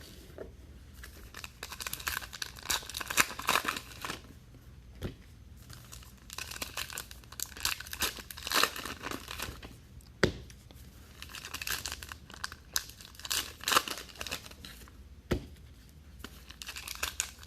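Trading-card pack wrappers being torn open and crinkled, in repeated bouts of a second or two with short pauses between them. There are two sharp knocks, one about ten seconds in and one about fifteen seconds in.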